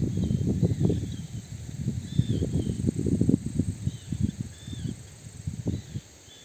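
Wind buffeting the microphone in uneven gusts, easing off near the end. Faint high chirps repeat in the background.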